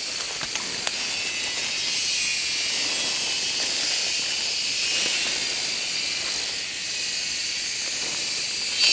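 Steady, high-pitched drone of an insect chorus in jungle, swelling louder near the end.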